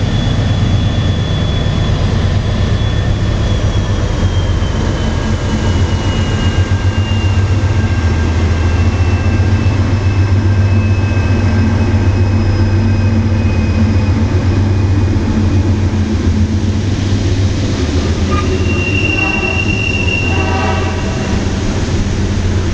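Norfolk Southern freight train climbing a mountain grade: the diesel locomotives work under load with a steady low rumble, and a long, thin, high wheel squeal slowly falls in pitch as the cars roll through the curve. Near the end, a chord of several higher tones comes in over the rumble.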